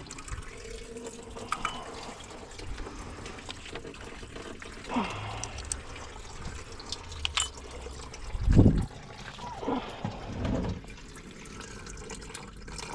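Coolant draining from the car's cooling system in a steady trickle, the caps opened to let it run faster. A few clicks and a loud thump about eight and a half seconds in.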